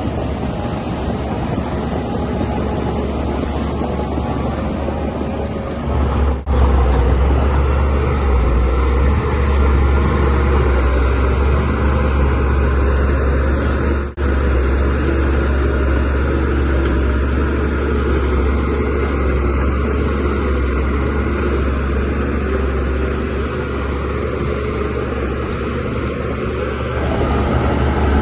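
Shantui DH17C3Pro bulldozer's diesel engine running steadily with a deep hum, getting louder about six seconds in, with two very brief breaks in the sound.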